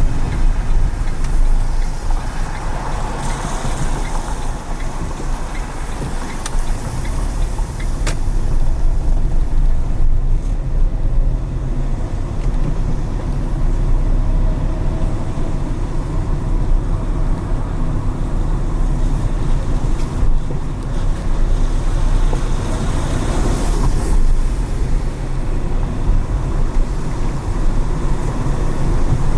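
Road noise of a car driving on wet city streets: a steady low rumble of engine and tyres, with the hiss of tyres swelling briefly a few seconds in and again near the end.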